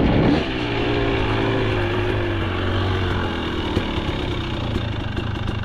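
KTM 300 XC's two-stroke engine running at low revs, its pitch sagging slowly over the first few seconds after a louder moment at the start. It is loading up a little from lugging in the mud.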